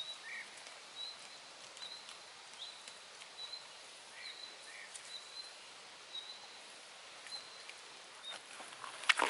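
A small bird repeating a short high chirp roughly every 0.7 s, with a few lower chirps early on, over faint clicks from a German Shepherd chewing raw meat. A few loud sharp knocks come near the end.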